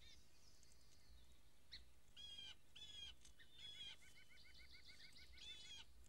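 Faint birdsong: a few separate chirps, then a quick trill of repeated notes lasting about a second and a half, ending in one more chirp.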